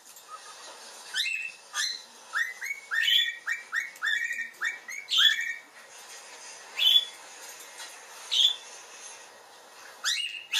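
Cockatiel whistling a song: a quick run of short, upward-sweeping whistled notes, then a few single whistles spaced well apart.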